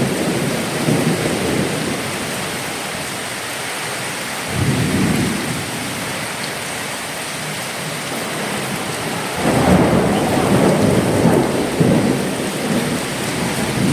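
Heavy cyclone rain hissing steadily, with low rumbling surges swelling up about four and a half seconds in and again for a few seconds near the end.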